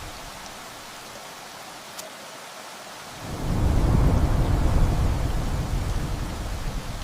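Steady rain hissing, with a deep roll of thunder coming in a little past the middle. The thunder swells to a loud rumble and then dies away near the end.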